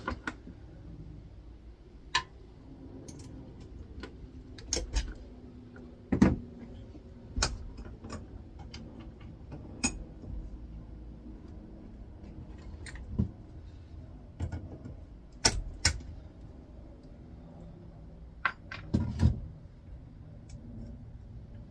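Irregular small metal clicks, knocks and clinks from hand tools working on small parts: steel retaining clips being pried off an aluminium part of an air fryer's fan assembly. About a dozen sharp knocks are spread unevenly through it, the loudest a pair near the middle and a cluster near the end.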